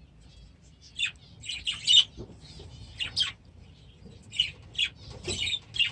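Budgerigars calling: a run of short, sharp chirps and squawks, irregularly spaced, the loudest about two seconds in.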